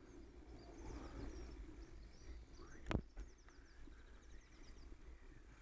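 Faint birdsong, quick repeated high chirps, over a low steady rumble of the bicycle rolling on wet tarmac, with one sharp click about three seconds in.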